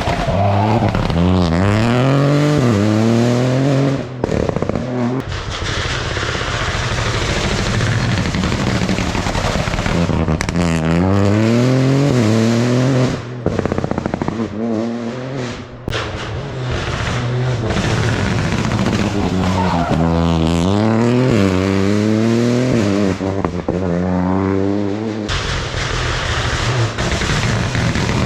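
Rally cars at full throttle on a special stage, the engine note climbing and dropping back again and again as they change up through the gears, in several separate runs with sudden breaks between them. Near the end the engine tone gives way to a rougher, noisier rush.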